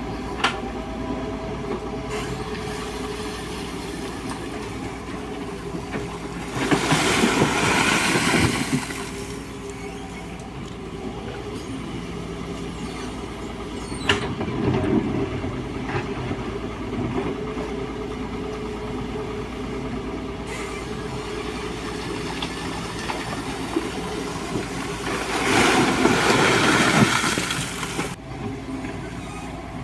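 Excavator's diesel engine running steadily as it works gravel, with two loud noisy surges of about two seconds each, one about a quarter of the way in and one near the end, and a few sharp knocks.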